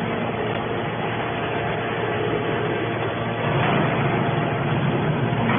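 Hydraulic scrap metal baler press running: a steady mechanical hum from its power unit, growing a little louder about three and a half seconds in.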